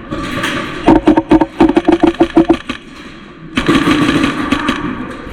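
Airsoft gun firing a rapid string of shots, about nine a second for nearly two seconds, over a steady mechanical hum. After a short pause there is a further noisy stretch of firing.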